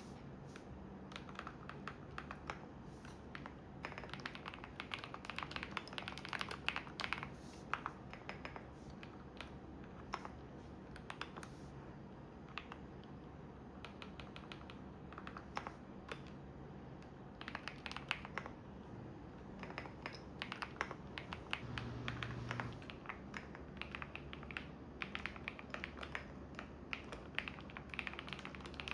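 Computer keyboard typing in bursts of rapid key clicks with short pauses between. Under it runs the steady low hum of a washing machine.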